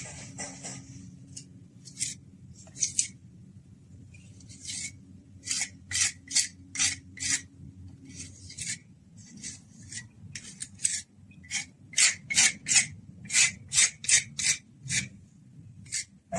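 A hand tool rasping against a hard surface in repeated strokes. The strokes are scattered at first, then come about two to three a second from about five seconds in.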